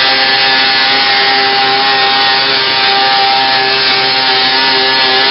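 Engine of a modified pulling garden tractor running loud at high, steady revs, as in a pull.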